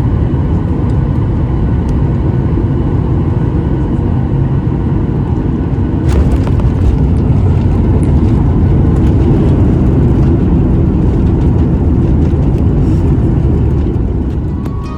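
Steady roar of an airliner heard inside the cabin: a Boeing 737 MAX 8's CFM LEAP-1B jet engines and rushing air. It swells a little about six seconds in and dies away near the end.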